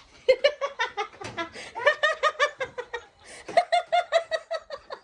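High-pitched laughter in quick, repeated ha-ha pulses, coming in three bouts.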